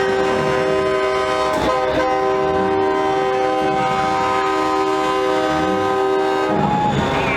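Multi-tone air horn, of the train-horn kind fitted to show trucks, blasting one long held chord for about six and a half seconds with a brief break early on, then cutting off.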